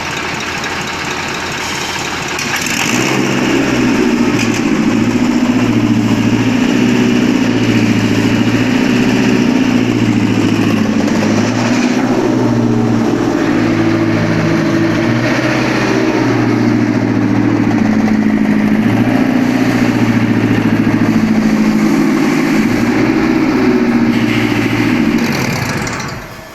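Toyota 2AR four-cylinder petrol engine on a test stand, starting up and running steadily with the sound picking up about two and a half seconds in, then shutting off near the end.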